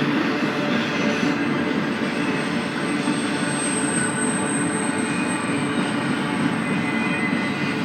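BNSF freight train rolling past: a steady rumble of wheels on rail. A thin, high whine comes in about a second and a half in and fades out near the end.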